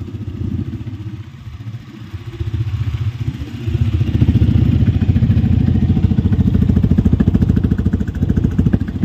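Yamaha R15 motorcycle's single-cylinder engine idling steadily through an aftermarket slip-on exhaust, growing louder about four seconds in.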